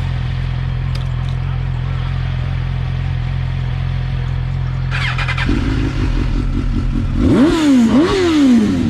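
Suzuki GSX-R1000 sport bike's inline-four engine idling steadily, then revved twice near the end, the pitch climbing and dropping each time.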